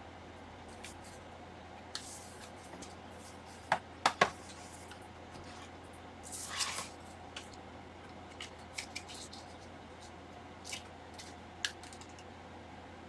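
Scattered small clicks, taps and scrapes of hand tools prying at a Microsoft Surface's glued-down screen to break the adhesive. The loudest are a few sharp clicks about four seconds in, followed by a short scraping rasp a little later.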